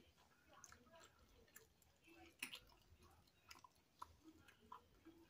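Faint, close-up chewing of a toasted sausage, egg and cheese sandwich: soft mouth sounds with scattered small smacks, one sharper click about halfway through.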